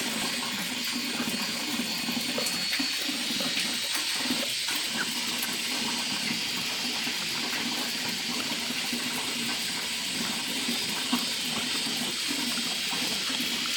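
Steady rushing noise like running water, even throughout, with a few faint small clicks.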